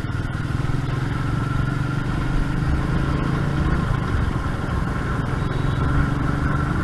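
Royal Enfield Meteor 350's single-cylinder engine running at a steady pace on the move, its note dipping briefly about halfway through.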